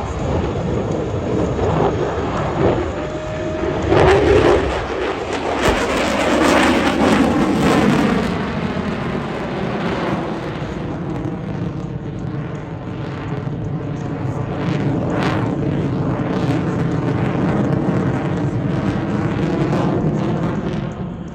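F-22 Raptor's twin F119 turbofan engines, a continuous loud jet roar as the fighter flies its demonstration, swelling to its loudest about four to eight seconds in, with a falling pitch as it passes, then going on at a steadier level.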